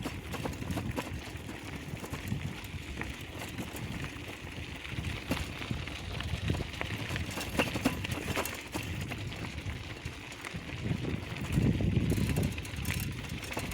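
Bicycles being ridden: rolling noise with scattered clicks and rattles, and a low rumble that grows louder about eleven seconds in.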